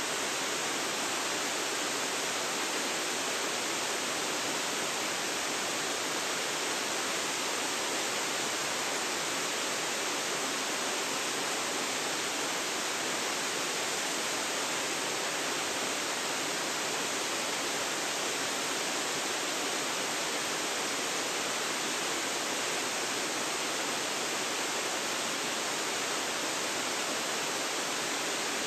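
Waterfall pouring steadily: a constant, even rush of falling water with no change throughout.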